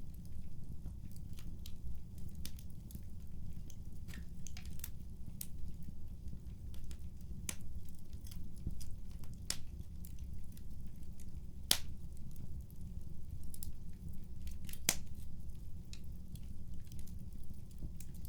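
Wood fire crackling: irregular sharp pops and snaps over a steady low rumble, with a few louder pops in the second half.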